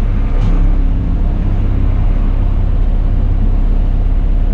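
Bus diesel engine running steadily with a deep, even rumble, heard from the driver's cab.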